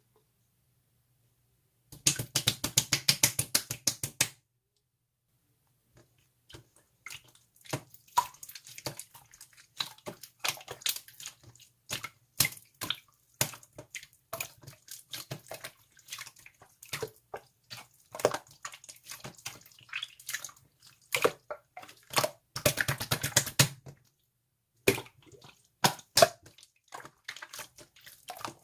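Slime being played with by hand, giving wet clicks and pops. There are two bursts of fast crackling, one a couple of seconds in and one about three-quarters of the way through, with scattered single clicks between them.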